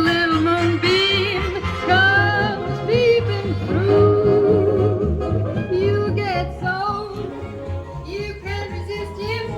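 Recorded music played through Klipsch Forte III loudspeakers driven by a Rogue Audio Cronus Magnum III tube amplifier: a singer holding notes with vibrato over a steady bass line.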